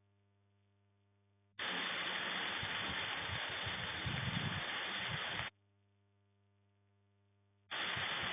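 Rain falling, a steady hiss with some low rumbling, that cuts in abruptly about one and a half seconds in and cuts off again about four seconds later; a faint low hum fills the gaps on either side.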